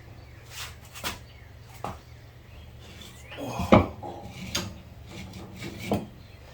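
Hand tools and metal parts clinking and knocking: about six separate short strikes, the loudest a little past the middle.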